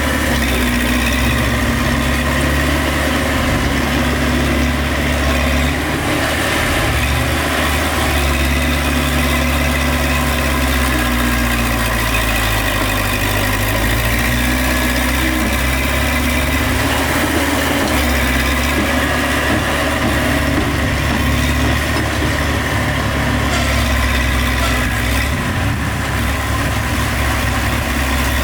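Engine of heavy earthmoving machinery running steadily at a low, even speed with a deep rumble, without revving up or down.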